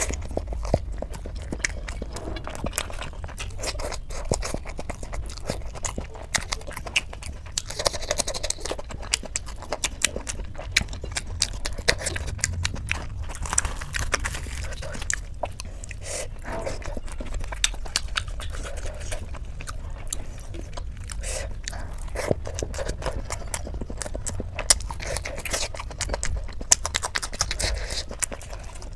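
Close-miked chewing of fried luchi (puri) dipped in dum aloo gravy: wet, squishy mouth sounds with many scattered sharp lip and mouth clicks.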